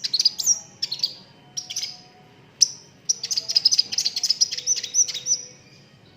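A sunbird singing: bursts of sharp, high chirps, then a fast rapid-fire run of high notes from about three seconds in to just past five.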